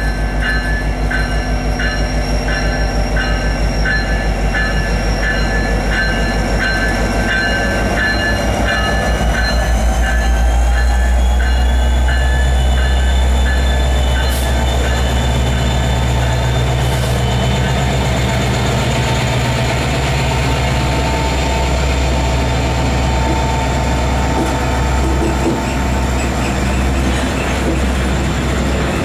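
SD70ACe-led Union Pacific freight locomotives passing close by as the train pulls out. A bell rings about twice a second for the first ten seconds. Then the diesel engines go by with a whine rising in pitch, followed by the steady rumble and clatter of empty trailer flatcars.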